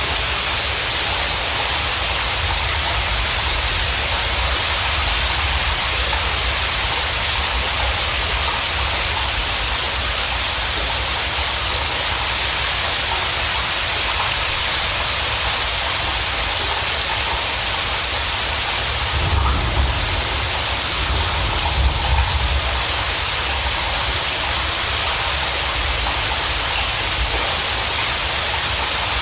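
Steady rain falling, a continuous even hiss, with two brief low rumbles about two-thirds of the way through.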